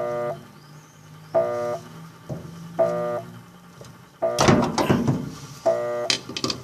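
Electronic buzzer beeping at a steady pace, a short buzzy beep about every second and a half. A burst of clattering handling noise comes a little past four seconds in.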